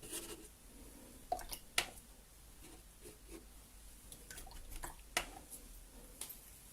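Paintbrush working clean water into wet paint on paper: soft, wet brushing and dabbing, with a few light clicks and taps.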